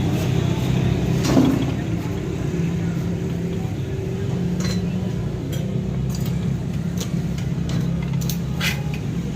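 A steady low mechanical hum, with a few light metallic clinks and ticks over it.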